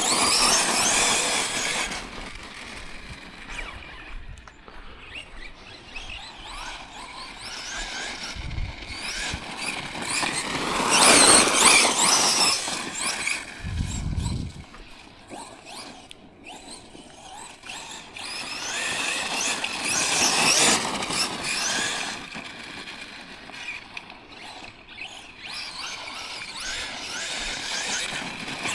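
Electric RC monster truck (Tekno MT410 2.0) driving hard over rocky ground: its motor and drivetrain whine, rising and falling in pitch with each burst of throttle, several times. Quieter gravel and tyre noise runs between the bursts, and there are two short low thumps.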